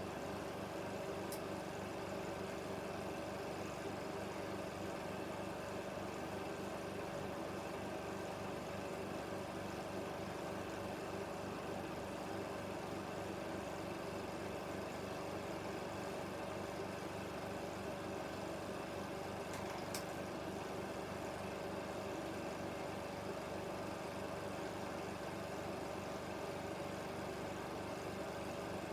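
16mm film projector running: a steady mechanical whirr with a fast, even clatter from the film mechanism and a constant hum.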